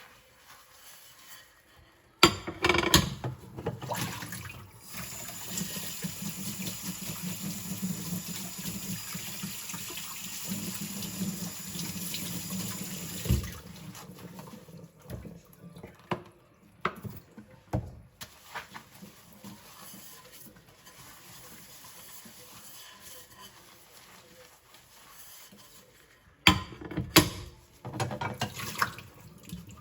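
Kitchen tap turned on about two seconds in, water running steadily over plates and shut off after about eleven seconds, followed by a few clinks of crockery. Loud splashing of rinse water near the end.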